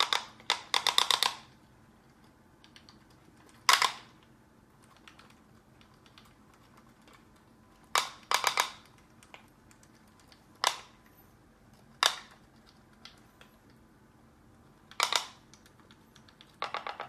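Candle-heated pop pop boat putt-putting: short bursts of rapid sharp pops from its steam boiler, coming irregularly every one to four seconds.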